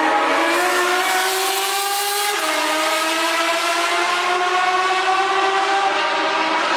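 Car engine accelerating hard: its pitch climbs steadily, drops once about two seconds in as it shifts up a gear, then climbs again.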